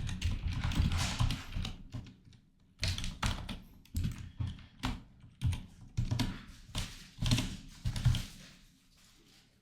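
Typing on a computer keyboard: bursts of quick keystrokes with a short pause about two seconds in, dying away near the end.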